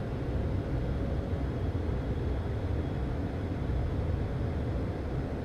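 Steady low rumble of airflow and twin turbofan engines inside the cockpit of a Premier I business jet on approach, with a faint steady hum above it.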